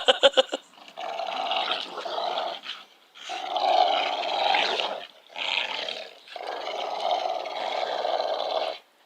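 Dog play-growling during a frisbee tug of war: four long, rough growls with brief pauses for breath between them.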